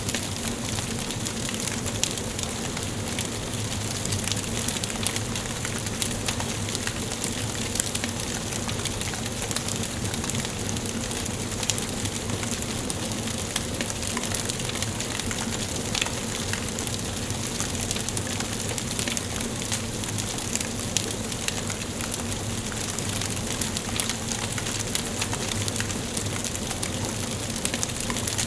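Wood fire burning in a fireplace: a steady hiss with constant small crackles and an occasional louder pop.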